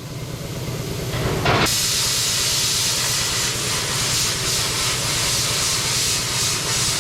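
Plasma cutter cutting steel plate: a steady hiss of the arc and air that starts loud about a second and a half in, over a low hum.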